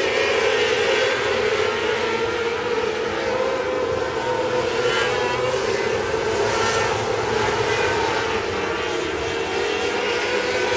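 Winged race car's engine running at steady high revs, its pitch holding almost constant with only slight wavering.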